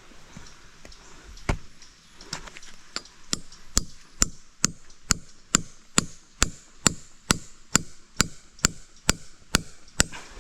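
Repeated chopping blows, a single heavy one first, then a few uneven strikes settling into a steady rhythm of about two a second.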